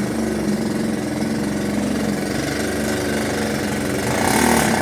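A small petrol engine running steadily at an even speed, with a louder rush of noise about four seconds in.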